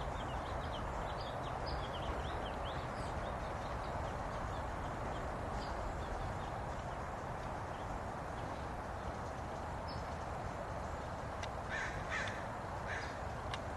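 Wild birds calling over a steady outdoor hiss: quick high chirps from small birds in the first few seconds and again briefly near the middle, then a few harsher calls near the end.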